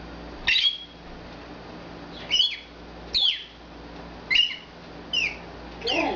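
Pet bird calling in short, shrill chirps, about six of them roughly a second apart, each a quick sweep in pitch.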